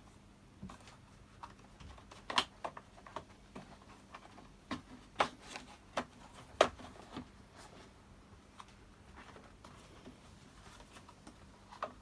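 Scattered light clicks and small knocks of parts and hand tools being handled while refitting the pulse line on a Stihl BR600 backpack blower, with a few sharper knocks in the middle.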